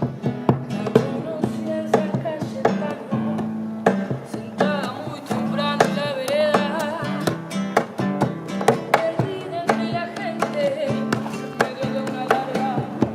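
A live band playing, with a strummed acoustic guitar over held bass notes and frequent sharp percussion hits. A wavering melody line comes in about four and a half seconds in.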